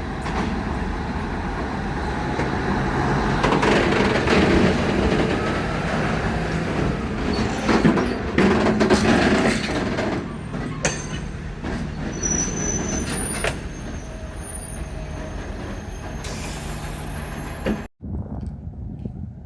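Freight train rolling past, its wheels and wagons running loudly over the track, with thin high-pitched wheel squeals in the second half. The sound cuts off abruptly near the end.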